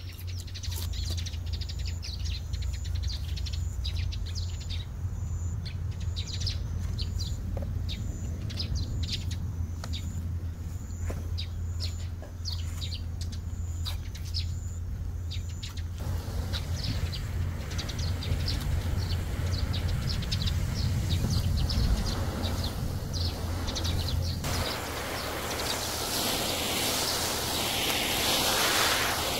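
Birds chirping many times over a steady low rumble; the chirps thin out after about 16 s, and a hissing rustle takes over for the last few seconds.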